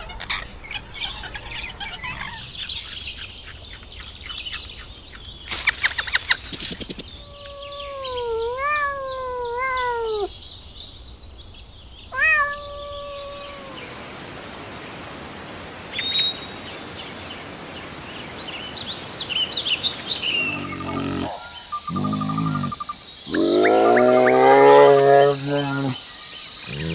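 A run of animal sounds: bird chirps and several drawn-out pitched animal calls with a wavering pitch, the loudest and lowest of them near the end.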